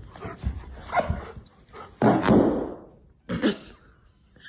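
A dog's sounds mixed with thumps, with a burst of noisy scuffling about two seconds in.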